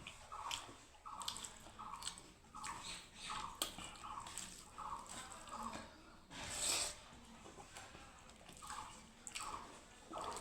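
Close wet chewing and lip-smacking of someone eating chicken-feet curry with rice, in a steady rhythm of about two chews a second, with one louder, noisier smack about six and a half seconds in.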